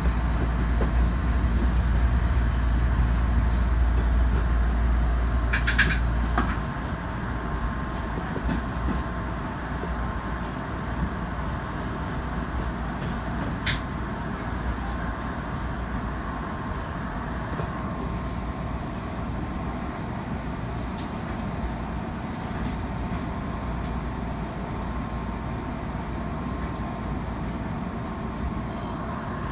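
Odakyu 1000 series electric train running, heard from the cab: a steady rumble of wheels on rail with a faint steady whine. The low rumble drops about six seconds in, and a few sharp clicks come through.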